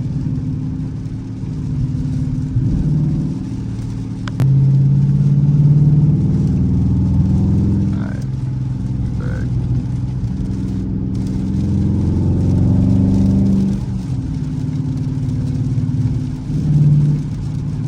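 Dodge Charger R/T's 5.7-litre HEMI V8 running under way, with road noise. The engine note steps up sharply about four seconds in, then rises and falls as it accelerates and eases off.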